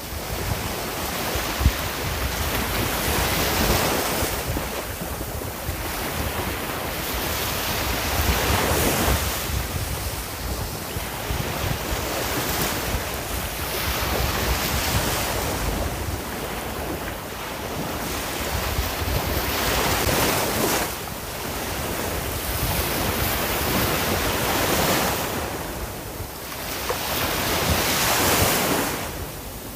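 Ocean waves breaking and washing on the shore, the surf swelling and easing every few seconds, with wind noise on the microphone.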